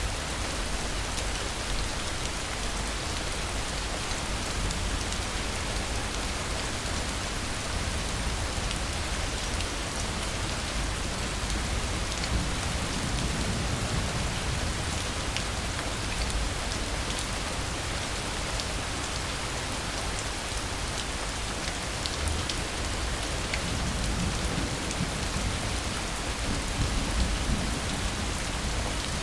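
Steady rain falling, with scattered individual drops ticking, and low rumbles of distant thunder swelling up around the middle and again near the end.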